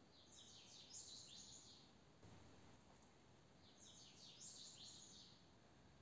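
A bird singing faintly, two matching short high-pitched phrases about three and a half seconds apart, with a soft low thump between them.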